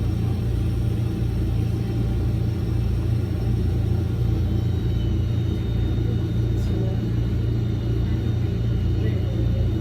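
Electric train running along the track: a steady low rumble, with a faint high whine coming in about five seconds in.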